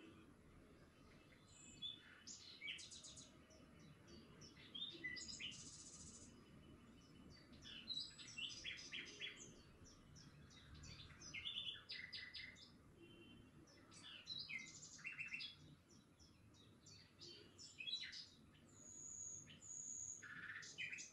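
Small birds chirping and twittering, many short high calls and quick trills in irregular bursts, faint, over a low background hum.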